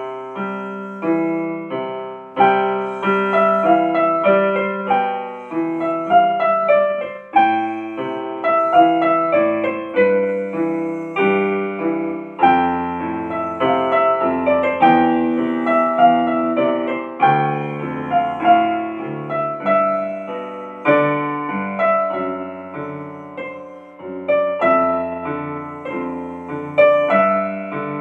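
Piano music: a gentle melody over chords, with notes struck and left to ring and fade.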